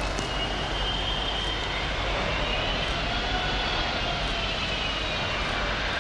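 Jet airliner's engines running with a steady roar and a high turbine whine that slowly rises and falls in pitch.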